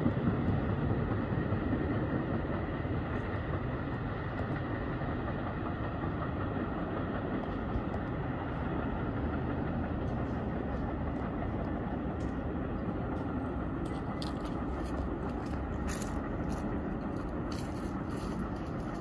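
New Jersey Transit multilevel commuter train, pulled by an ALP-45DP dual-mode locomotive, rumbling away down the line. The rumble fades over the first few seconds and then holds as a steady low drone, with a few faint clicks in the second half.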